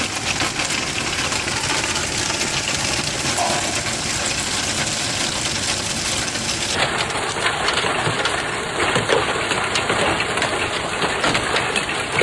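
Heavy storm rain pelting down, a dense steady hiss full of sharp little impact taps. About seven seconds in it switches to a second, similar downpour.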